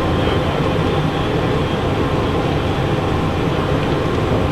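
Steady rushing airflow and turbofan noise inside the cockpit of a Cessna Citation Encore business jet on final approach, landing gear down and landing flaps set. The noise is even throughout, with no changes.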